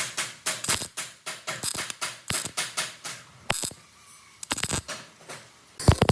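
A run of sharp mechanical clicks and taps, several a second at first, then fewer and further apart, with a louder knock near the end.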